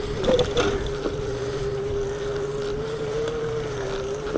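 Electric bike's assist motor whining at a steady pitch as it helps on a steep uphill climb, with wind noise on the microphone and a few clicks about half a second in.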